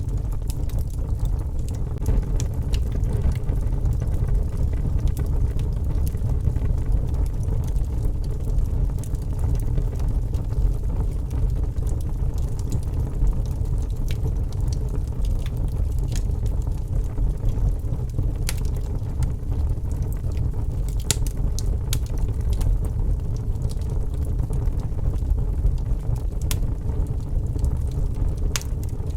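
Wood fire crackling in a fireplace: scattered sharp pops and snaps over a steady low rumble of storm wind.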